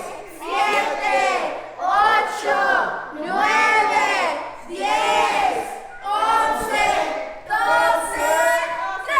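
A group of people chanting or singing together in a steady rhythm, about one loud phrase a second, with short breaks between phrases.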